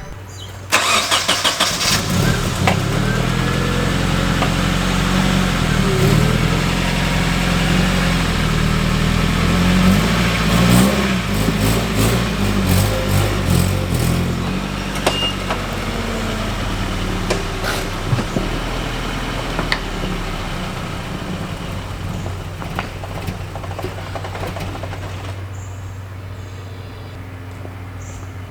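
An engine starts abruptly and runs, its speed rising and falling in the middle before it settles to a steadier run.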